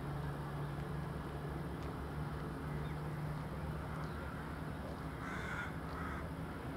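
Steady low hum of a train idling at the station, with a bird calling briefly a couple of times about five to six seconds in.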